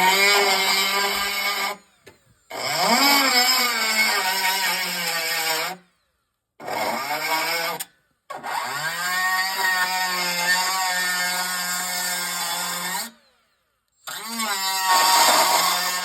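Hand-held electric grinder run in five bursts of one to five seconds, each time spinning up to a steady high whine with a hiss over it, then cutting off, as it grinds on metal.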